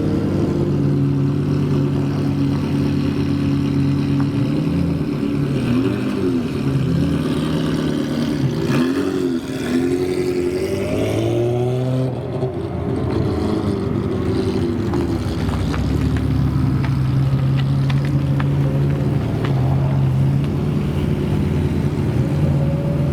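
Supercar engine running, its pitch swooping up and down several times in the middle as the revs rise and fall, then settling back to a steady drone.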